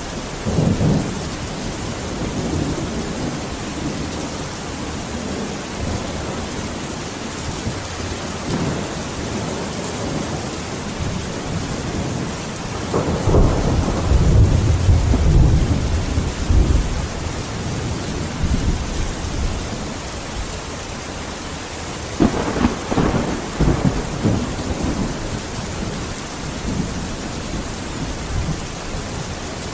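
Steady heavy rain with rolls of thunder: a low rumble about a second in, a louder, longer roll around the middle, and a sharper crack and rumble a little past two-thirds of the way through.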